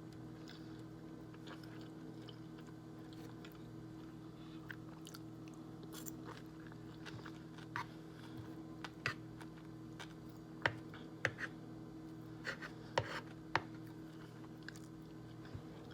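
A person chewing and crunching a mouthful of salad close to the microphone, with scattered short crunches that come more often in the second half, over a steady low hum.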